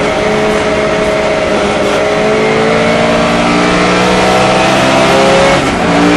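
Sunbeam Lotus race car's 2.2-litre four-cylinder engine pulling hard under load, its note climbing slowly in pitch, with a short break in the note near the end before it pulls on again.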